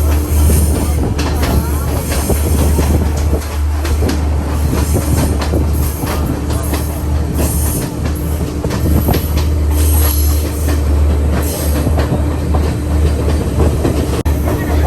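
Train running on rails: a steady heavy rumble with repeated clacks. High-pitched wheel squeals come and go every few seconds.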